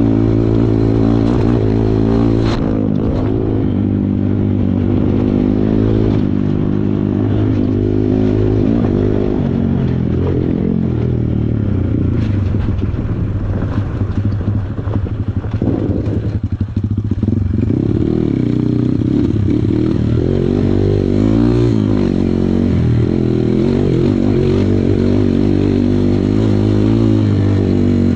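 Kawasaki KLX140 trail bike's single-cylinder four-stroke engine running while riding, its pitch rising and falling with the throttle. About halfway through it drops off briefly, then picks up again.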